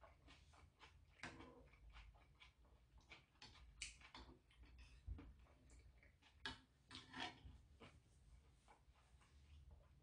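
Near silence with faint chewing sounds from a mouthful of sundae-guk soup, and a few soft clicks scattered through it, like a spoon touching the pot.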